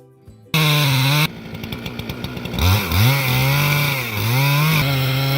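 Chainsaw running: it starts loud about half a second in, its engine pitch dips and rises a few times as it works, then it holds steady near the end.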